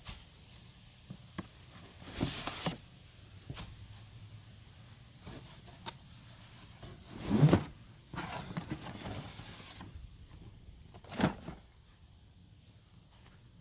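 Unboxing noises: cardboard packaging and plastic parts being handled, with rustling and a few knocks, the loudest one about halfway through.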